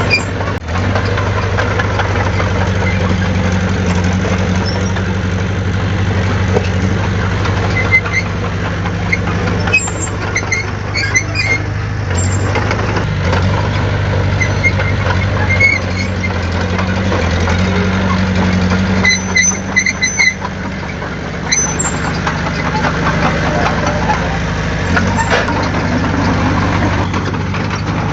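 Heavy diesel engine of earthmoving machinery running steadily, with brief high metallic squeaks and clinks about ten seconds in and again near twenty seconds.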